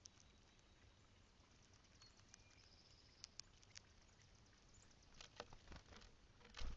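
Faint scattered taps and scratches on a bird feeder platform, thickening into a quick run of clicks in the last couple of seconds and ending in a low bump: a bird pecking at seed and moving about on the feeder.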